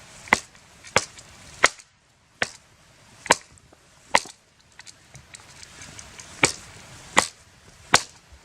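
A blade chopping into dry wood to split off kindling: about nine sharp strikes, with a pause in the middle.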